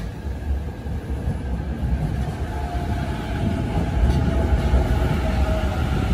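Green-and-orange striped electric commuter train running past at close range: a steady deep rumble of wheels on rail that grows louder toward the middle, with a faint whine joining about halfway through.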